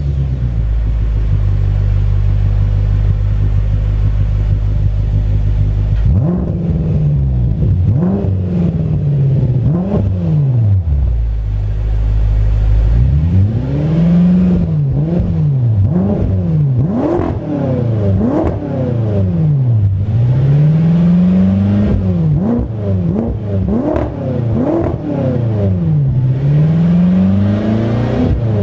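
BMW F10 M5's twin-turbo V8 heard through a HE'ART aftermarket exhaust system. It idles steadily for about six seconds, then is revved again and again in quick rise-and-fall blips, with a short idle in the middle.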